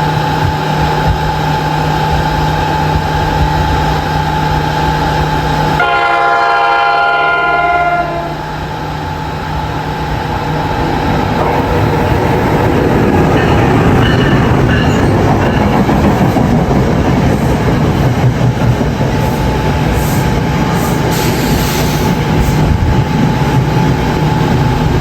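NJ Transit train sounding its horn as it approaches, the horn chord dropping in pitch as it passes about six to eight seconds in, then the rushing and clattering of the train's wheels on the rails as it goes through at speed.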